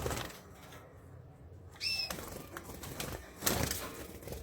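A canary giving a single short chirp about two seconds in, with brief rustles, the loudest about three and a half seconds in.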